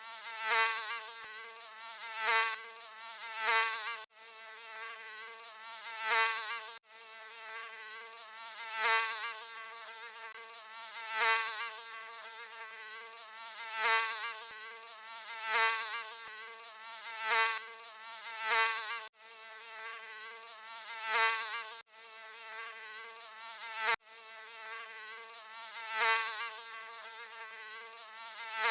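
Mosquito wings buzzing in a steady high whine, swelling loud and fading back roughly every two seconds as if it flies close past the ear. The sound cuts out abruptly for an instant a few times, at the seams of a looped recording.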